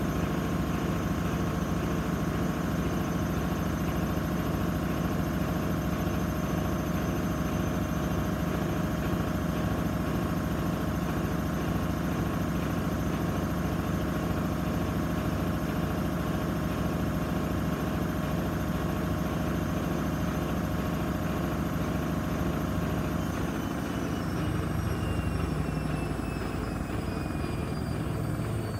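Gorenje SensoCare washing machine in its high-speed spin, a steady rumble with a whine; about 23 seconds in the drum starts to slow and the whine falls in pitch as the spin winds down.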